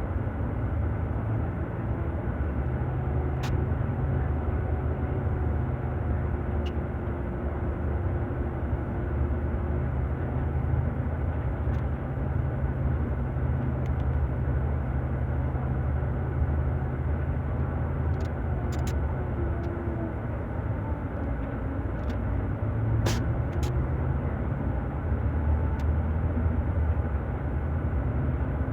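Scania K400 coach's six-cylinder diesel engine running steadily with a low drone, with a few sharp clicks along the way.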